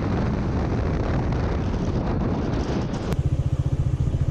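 Motorbike riding noise, engine and rushing air together. About three seconds in it cuts to a motorbike engine running with a rapid, even pulse.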